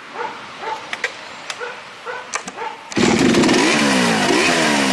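A dog barking repeatedly, then about three seconds in a chainsaw starts up loud and revs up and down.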